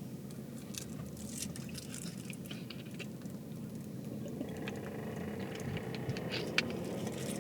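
Car cabin noise while driving: a steady low road and engine rumble with scattered light clicks and ticks. From about halfway a faint engine note starts rising.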